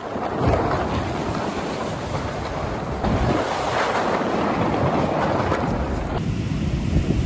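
Strong, gusty wind blowing and buffeting the microphone, a loud rushing noise that eases a little about six seconds in.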